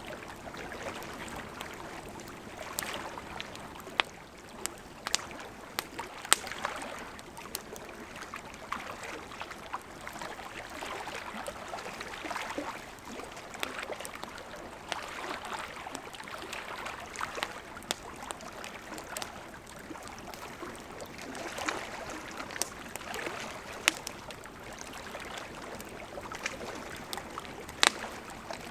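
Wood fire crackling, with sharp irregular pops, a few of them loud, over the steady rush of a gently flowing river.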